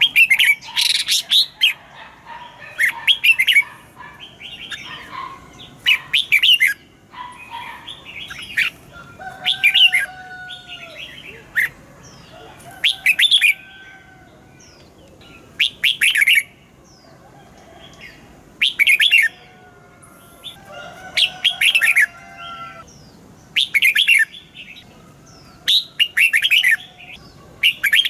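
Red-whiskered bulbul song: short, loud, rapid phrases repeated about every two to three seconds, with softer whistled calls between them.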